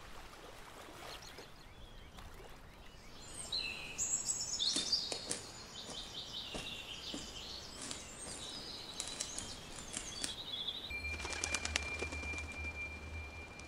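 Birds chirping and calling in a forest. About eleven seconds in, a steady high tone and a low hum begin with a quick run of clicks.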